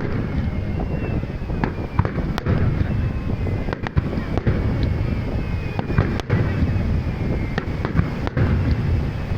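Aerial fireworks bursting: irregular sharp bangs, sometimes two or three close together, over a steady low rumble of more distant explosions.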